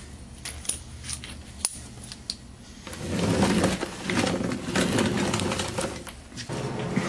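Small steel plates and parts clinking as they are handled, a few separate clicks at first, then louder jangling and scraping from about three seconds in.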